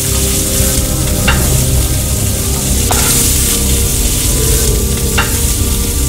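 Food sizzling on a hot griddle: a steady frying hiss with three short scrapes, over a low steady hum.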